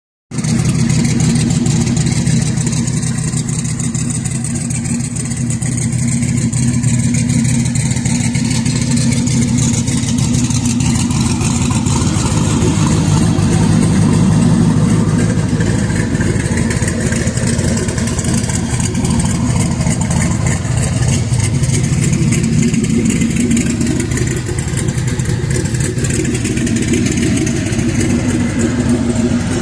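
Twin-turbocharged GM G-body car's engine running steadily at low, even revs.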